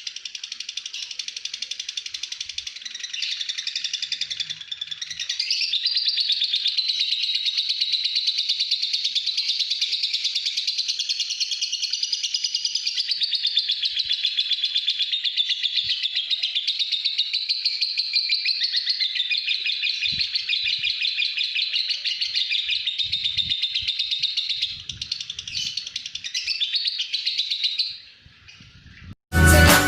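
A pet lovebird singing its long, unbroken 'ngekek' chatter: a rapid, shrill, pulsing trill that runs on without a pause and stops near the end.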